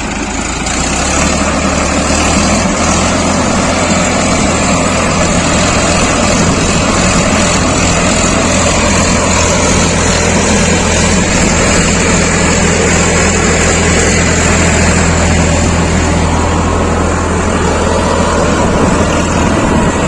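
Diesel tractor engine running loudly and steadily, with a deep low rumble that builds up in the first second or two and then holds.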